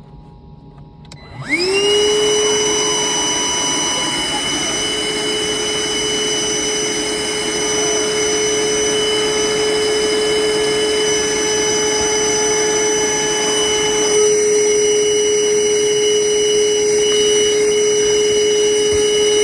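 Wet/dry shop vacuum starting up about a second and a half in and running steadily with a high whine, sucking out a clogged condensate drain line. The pitch of the running sound shifts slightly about two-thirds of the way through.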